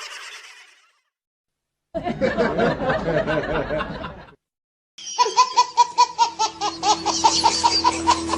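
Two canned laughter sound effects, one after the other with a short silent gap: a hearty laugh lasting about two seconds, then a high-pitched, rapid cackling laugh that falls slightly in pitch and cuts off abruptly. A short sound fades out in the first second.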